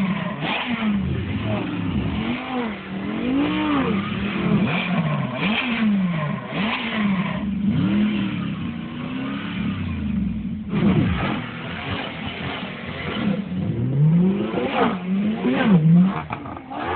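Several supercar engines revving on the start line, throttles blipped again and again so the overlapping engine notes rise and fall.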